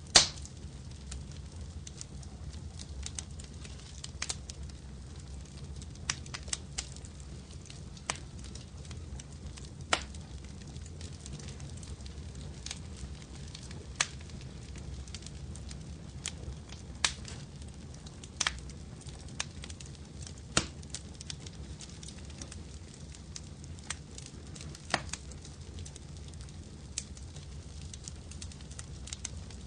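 Wood fire crackling: a steady low rumble with irregular sharp pops and snaps, the loudest right at the start.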